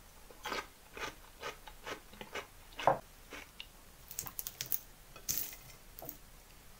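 Crunching of a crisp pickled cucumber slice being chewed, about two bites a second, the loudest near the middle. Then a few light, sharp clicks of wooden chopsticks against the plate.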